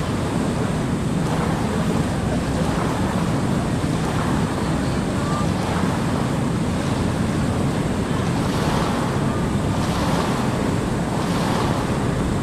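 Fast floodwater current rushing in a steady, continuous roar, with wind buffeting the microphone.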